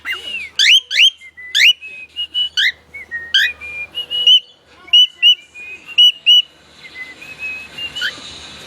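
Pet bird whistling a varied song: quick upward-sweeping notes mixed with short level whistles, several a second.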